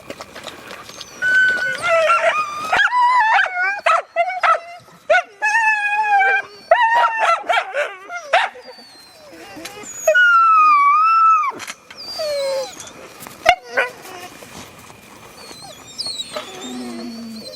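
A yard of sled dogs howling, yipping and whining together, excited at feeding time. Many calls overlap and rise and fall in pitch. One long howl stands out about ten seconds in, and the calling thins out near the end.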